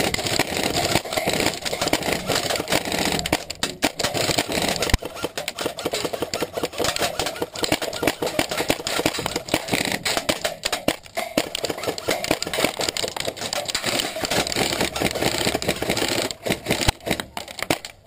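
Rapid, continuous rattle of airsoft fire, with BB pellets pattering and clattering against the tower, and a couple of sharper cracks about five seconds in and near the end.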